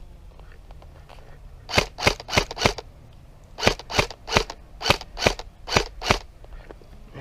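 Airsoft gun fired in quick single shots: about eleven sharp cracks in two strings, four and then seven, roughly three a second.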